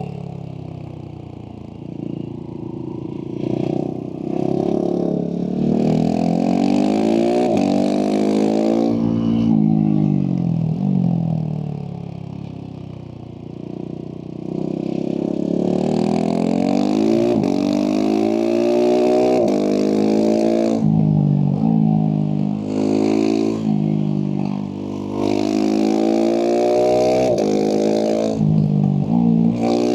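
Husqvarna 701 SM's single-cylinder engine through a Leovince slip-on exhaust, accelerating hard through the gears, its pitch climbing and dropping sharply at each upshift. About halfway through it winds down off the throttle before pulling up through the gears again.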